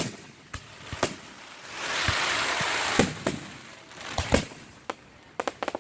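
Aerial fireworks going off: a string of sharp booms, a hiss lasting about a second in the middle, and a quick run of small crackling pops near the end.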